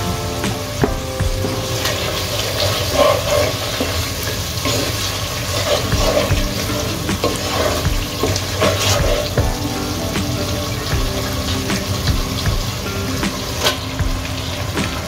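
Onion-and-spice masala sizzling in oil in a pot, stirred and scraped with a wooden spatula through the middle seconds.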